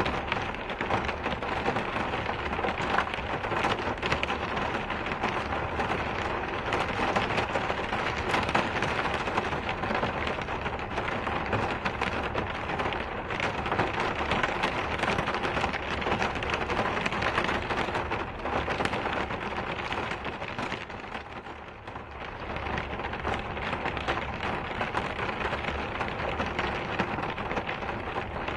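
Rain falling steadily, a dense patter of drops. It eases briefly about three-quarters of the way through, then picks up again.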